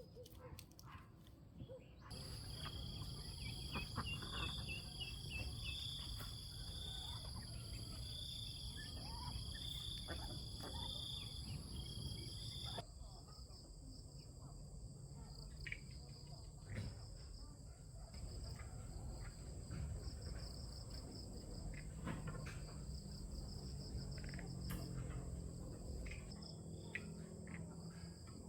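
Steady, high-pitched chorus of insects such as crickets or cicadas over a low background hum, with scattered faint knocks and clicks. The chorus changes abruptly about two seconds in and again about halfway through, as if at cuts.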